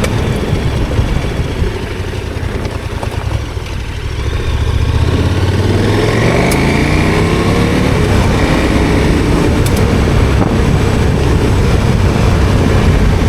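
KTM 1290 Super Adventure R's V-twin engine under way on a gravel road, rising in pitch as the bike accelerates from about four seconds in, with a steady rush of tyre and gravel noise under it.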